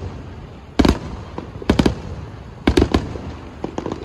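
Aerial firework shells bursting: a single bang, then clusters of two or three quick bangs about a second apart, over a low rumble.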